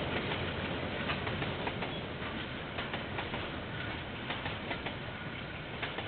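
A KiwiRail train rolling past: a steady rumble with scattered sharp clicks from the wheels on the rails, easing off slightly toward the end. Heard through a security camera's microphone.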